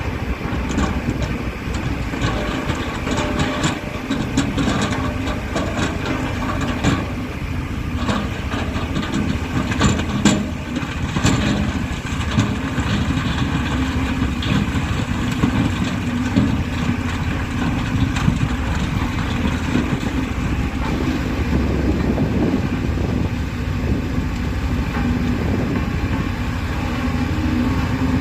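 Heavy earthmoving machinery at work: a large diesel engine running steadily, with scattered sharp clanks through the first half.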